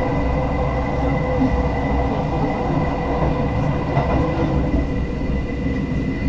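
JR West local train heard from inside the passenger car as it runs: a steady rumble with a thin steady high tone through it.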